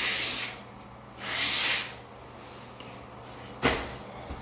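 Two strokes of a float scraping across dry-pack shower pan mortar, smoothing the surface, followed by a single light knock near the end.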